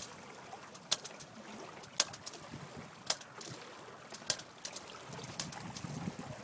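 Water splashing against the hulls of a Hobie 16 catamaran under sail: sharp slaps about once a second over a steady rush of water and wind.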